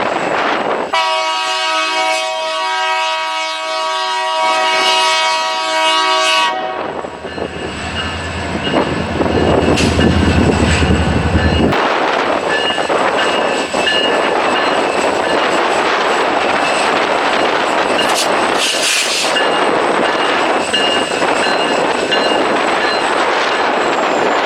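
Diesel locomotive sounding one long horn blast of several tones together, then the low rumble of the locomotive passing, which cuts off suddenly, followed by the steady noise of railcars rolling by on the rails.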